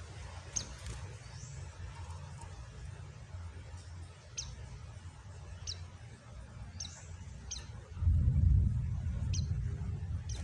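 White-eye (pleci) giving a scattering of short, high chirps, about seven of them, over a low rumble that swells louder about eight seconds in.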